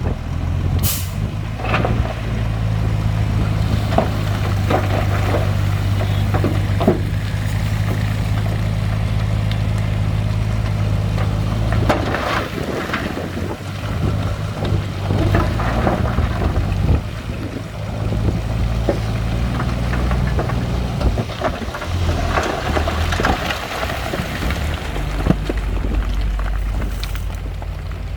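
Heavy diesel construction machinery running steadily, with its engine note changing about twelve seconds in and again near the end, and many scattered clanks and knocks of metal and stone over it.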